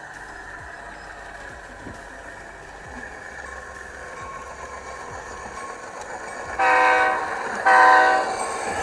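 HO-scale SD90MAC-H model's sound decoder (SoundTraxx Tsunami2, EMD 265H prime mover sounds) playing a steady diesel running sound through its small speaker. Near the end it sounds two short blasts of its multi-note air horn.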